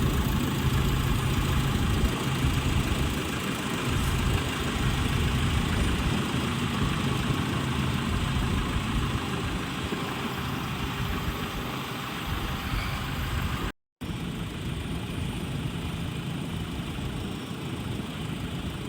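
Engine of a Mitsubishi Fuso jet dryer truck running steadily. The sound cuts out for a moment about 14 seconds in, then resumes unchanged.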